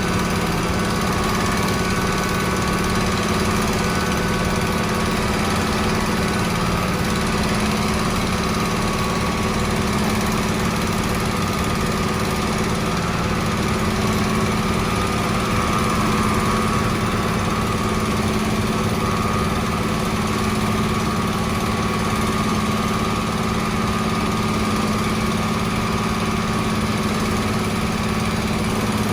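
Engine of a construction machine running steadily at an even, constant speed.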